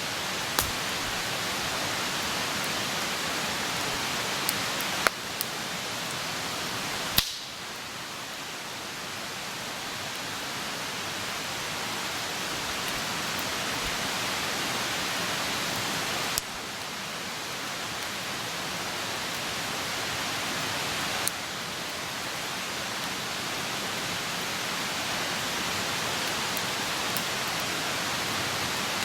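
Open wood campfire burning with a steady rushing hiss, broken by a handful of sharp pops and crackles from the burning wood.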